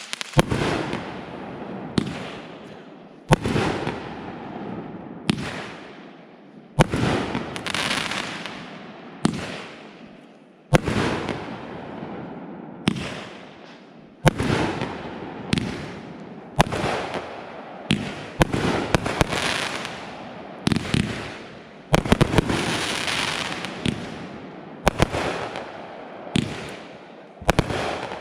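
Consumer fireworks (aerial shells and cakes) going off one after another: a sharp bang every second or two, each trailing away in a long fading crackle and hiss, with some bangs coming in quick pairs.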